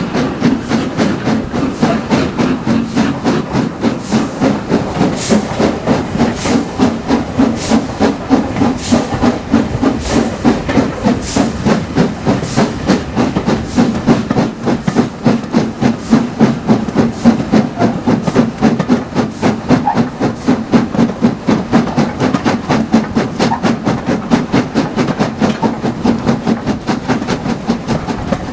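Steam locomotive working steadily, its exhaust beating in a quick, even rhythm of about three chuffs a second over a constant hiss of steam.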